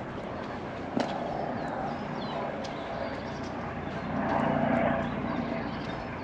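Helicopter flying overhead, a steady drone that swells about four seconds in and then eases. A few faint bird chirps sound early on top of it.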